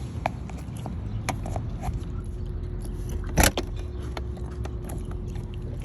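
Wire coat hanger clicking and scraping against the car door as it is worked in to reach the lock, with one louder click about three and a half seconds in, over a steady low rumble.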